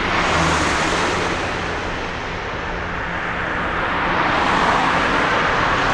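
Jet airliner's engines at takeoff power, a loud, steady rumble that swells twice.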